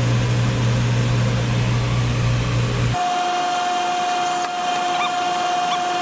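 Steady low machine hum with a rushing noise. About halfway through it cuts off abruptly and is replaced by a different steady, high-pitched whine with a few faint chirps over it.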